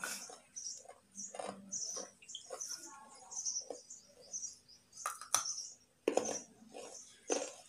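Raw carrot being chewed close to the microphone: a string of crisp, wet crunches at an uneven pace, with two sharp cracks about five seconds in.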